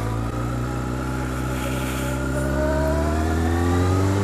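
Litre-class sportbike's inline-four engine running at low revs while ridden slowly, its pitch sagging a little midway and rising again near the end.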